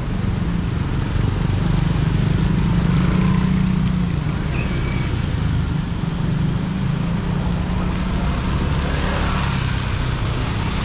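Street traffic: vehicle engines running and passing, a steady low engine hum over road noise, with a brief high tone about four and a half seconds in.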